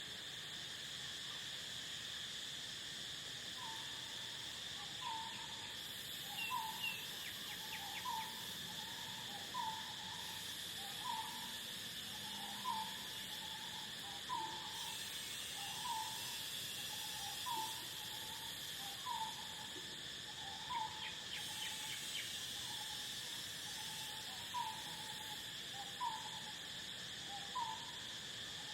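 A bird repeating a short two-note hooting call about every one and a half seconds, starting a few seconds in, over a steady chorus of crickets.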